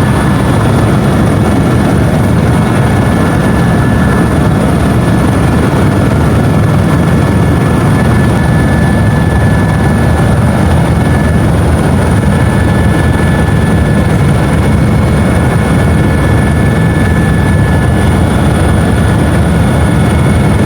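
Helicopter in flight: a loud, steady drone of rotor and engine noise.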